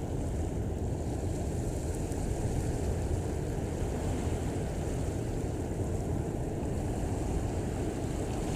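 Steady low rumble and wash of water from a passing container ship, with wind buffeting the microphone.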